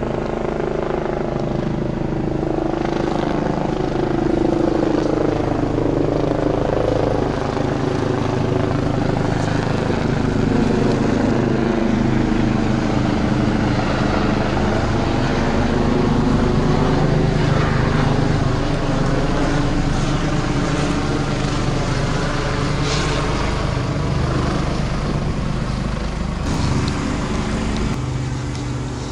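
Steady engine drone with slowly shifting pitch.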